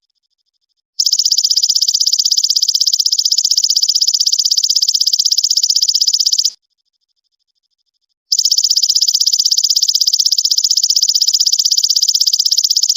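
High-pitched, very rapid buzzing trill, the kind of insect or songbird trill used on masteran tracks for training songbirds. It comes in two long unbroken phrases of about five seconds each, with a short silence between them.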